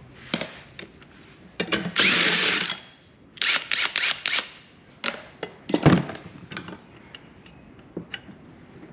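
Power drill-driver run briefly for under a second, then pulsed in a quick string of short bursts, as it backs fasteners out of a table saw's housing. Knocks and clicks of parts and tools being handled come before and after it.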